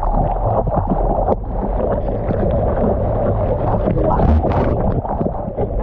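Sea water sloshing and churning with wind buffeting the microphone, as from a camera out in the surf, with a louder splash about four seconds in.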